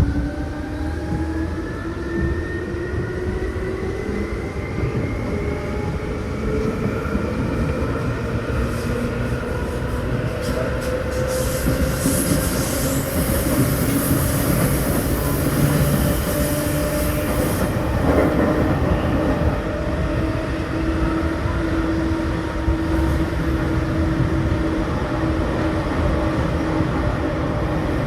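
Seibu New 2000 series electric train heard from inside the car while running. Its traction motors whine in several tones that rise in pitch as the train gathers speed, then level off, over a steady rumble of wheels on rail. A high hiss from the wheels joins in for several seconds midway.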